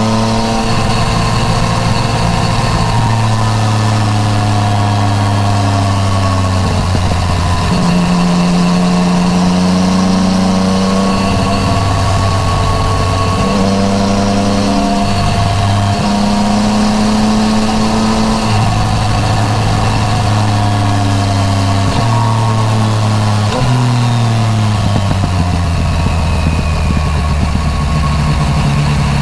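Yamaha MT-09 Tracer's three-cylinder engine through an Akrapovič titanium full exhaust, heard from the rider's seat. It runs steadily with its pitch stepping up and down several times as gears change and the throttle opens and closes, then winds down near the end.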